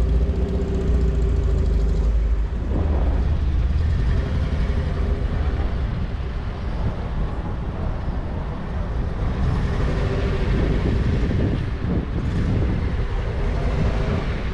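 Car engine running with a steady low rumble and a held tone, which fades after about two seconds and returns later.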